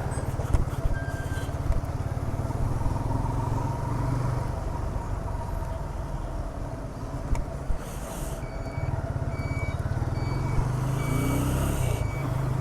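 Steady rumble of a road vehicle on the move in rain, with a high hiss that swells at times. In the last few seconds a vehicle's electronic beeper sounds short beeps about once a second.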